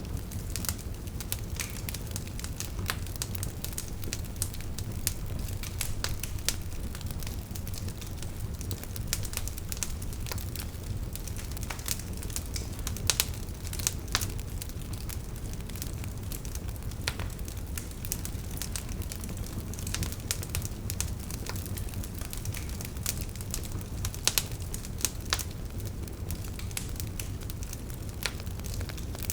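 Wood fire burning steadily: a low rumble of the flames with frequent sharp, irregular crackles and pops from the burning logs.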